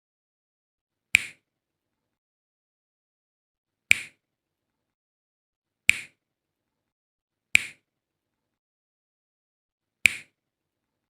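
A sharp click or snap sound effect heard five times at uneven intervals, each one short with a brief tail, and dead silence between them.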